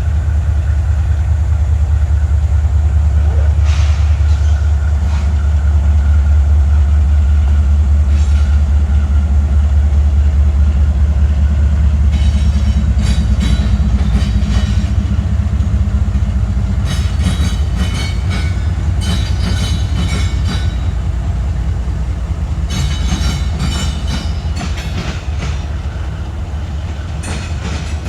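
Diesel freight train passing close by. The locomotive engines run with a loud, low rumble at first. From about halfway through, the rumble eases and the cars' wheels clack in repeated groups over the rail joints.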